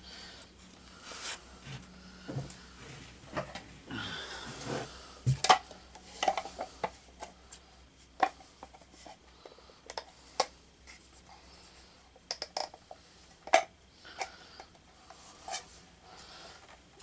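Small metal parts and hand tools clinking, tapping and rattling in irregular clicks and knocks, with some scraping, as parts are handled and fitted by hand.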